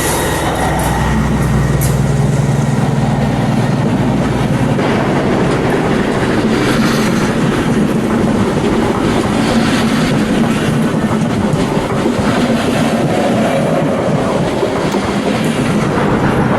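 Märklin model steam train with a long string of freight wagons running, its wheels clattering over the track. A low hum underneath fades out about four seconds in.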